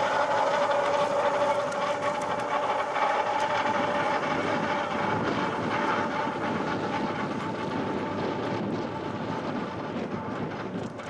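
Electric rack-railway train of the Petit Train de la Rhune on the move. A steady two-note whine from its drive fades out after about six seconds, over a running clatter and rumble that slowly grows fainter.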